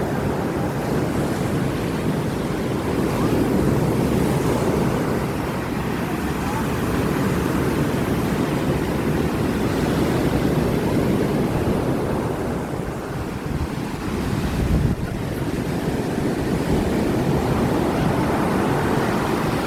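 Rough sea surf breaking on a beach in strong wind, with wind buffeting the microphone and a deep gust thump about fifteen seconds in.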